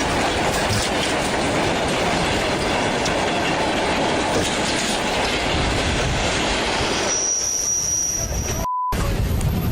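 Train rolling on the track: steady wheel and rail noise with some wheel squeal. About seven seconds in it drops away to a thin high whine, then a short beep and a moment of silence.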